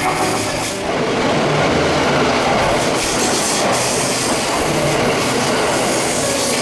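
Tokaido Shinkansen train passing through the station platform at high speed: a loud, steady rushing roar of wheels and air that swells up about a second in and holds.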